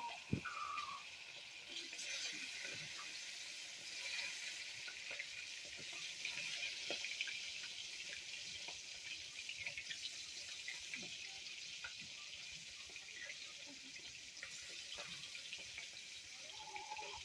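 Fish frying in hot oil in a pan: a steady sizzle with scattered small pops and crackles.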